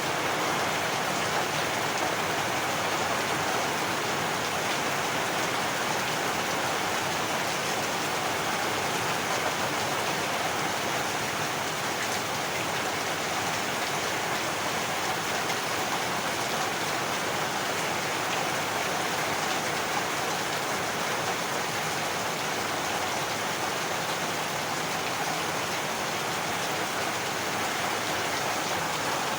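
Heavy rain falling steadily, an even hiss of rain.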